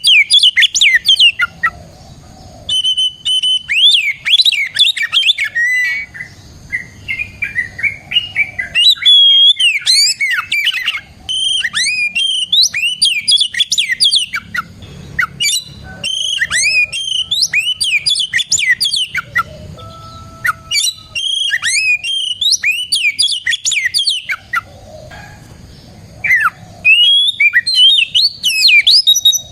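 Oriental magpie-robin (kacer) singing loudly: rapid, varied phrases of clear whistles and fast rising and falling trills, broken by short pauses.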